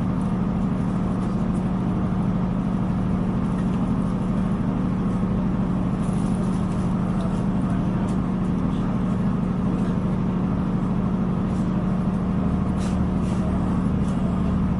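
A diesel multiple-unit train running, heard on board as a steady low drone, with a few faint ticks now and then.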